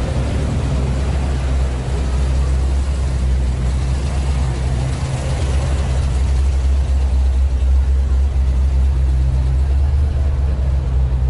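A car engine idling steadily, a low even drone.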